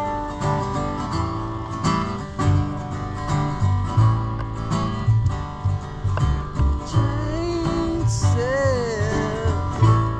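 Acoustic string-band jam: strummed acoustic guitar and other plucked strings over a stepping bass line. A sliding melody line, voice or instrument, comes in over the top about seven seconds in.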